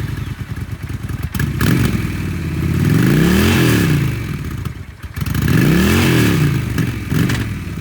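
A 2012 Honda Shadow Phantom's fuel-injected, liquid-cooled 750 cc V-twin idling, then revved twice. Each time the engine speed climbs and falls back to idle, peaking about three and a half seconds in and again about six seconds in.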